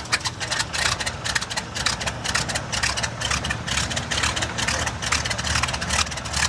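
Fieseler Storch's Argus As 10 air-cooled inverted V8 aircraft engine running steadily, with a rapid, even beat.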